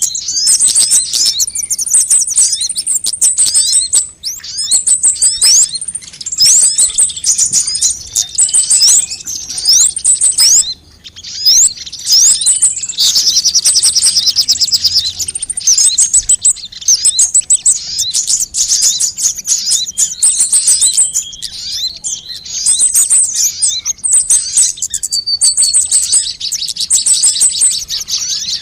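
Sunbirds calling: rapid, high-pitched chirps, ticks and short trills, densely layered with hardly a pause, a recording made to lure birds.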